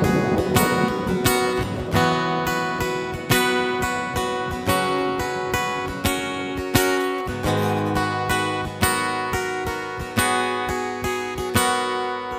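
Background music: an acoustic guitar strumming and picking chords in an even rhythm, the instrumental intro of a slow pop ballad before the vocals come in.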